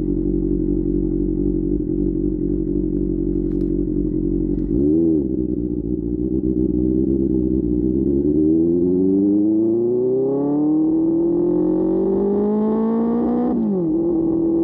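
QJ Motor SRK600's inline-four engine through an SC-Project exhaust. It runs steadily, dips and rises in pitch briefly about five seconds in, then pulls up through the revs in one long rise that drops sharply at a gear change near the end.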